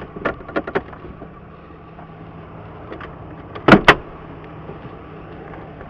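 A vehicle door shut with two loud knocks close together a little under four seconds in, after a few light clicks. A steady low engine hum runs underneath.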